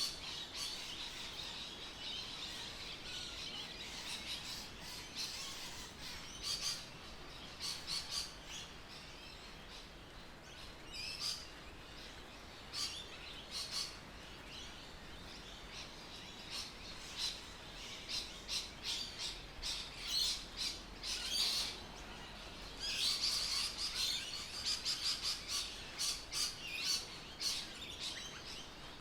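Birds chirping and calling outdoors: many short, quick chirps and trills, densest near the end.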